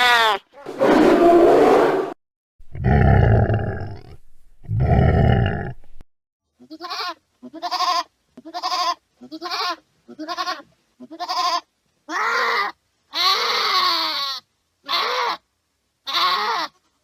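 Goats bleating, a sound-effect recording. It opens with three long, harsh calls. Then comes a quick run of over a dozen short bleats, about one a second, and the last few are drawn out longer.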